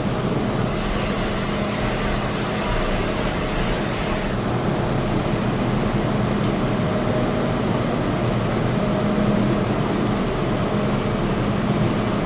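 Steady hum inside a stopped MTR Island line train car: air conditioning and the train's equipment running, with a low drone and a faint steady tone above it.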